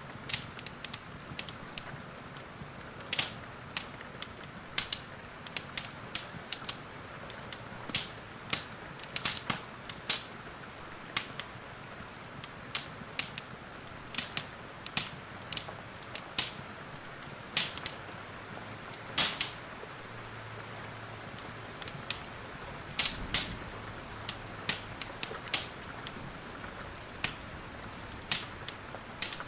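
Wood fire crackling, with sharp irregular pops every second or so, over a steady hiss of rain.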